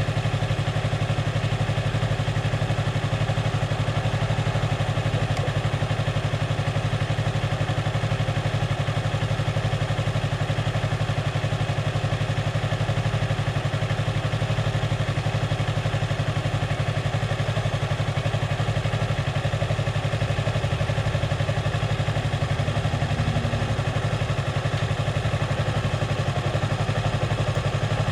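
2016 Yamaha R3's parallel-twin engine running steadily, its note holding at one unchanging pitch with no revving.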